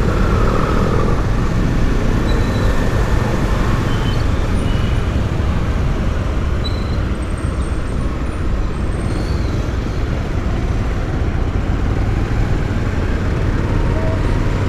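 Steady engine, road and traffic noise of a motorcycle riding through city streets, with a constant low rumble.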